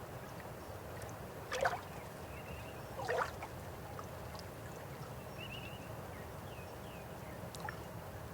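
River water flowing steadily, with two brief louder splashes about one and a half and three seconds in. A few faint short chirps come over the water.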